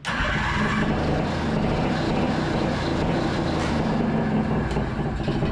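1982 Honda Odyssey FL250's two-stroke single-cylinder engine catches right at the start and runs hot at a steady speed. It will not hold an idle, which the owner blames on too small a pilot jet in the aftermarket Nibbi carburetor, and there is a dragging noise that he thinks may be the belt.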